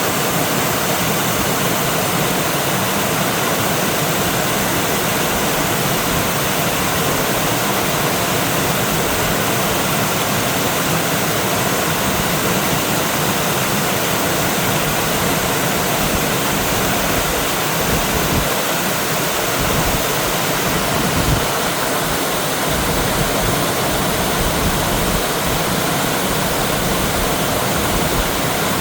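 Mountain stream rushing over rocks, a steady, loud full rush of water.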